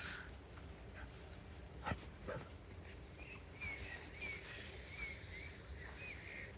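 A dog giving a string of short, high whines, repeated about twice a second through the second half, after a couple of sharp clicks.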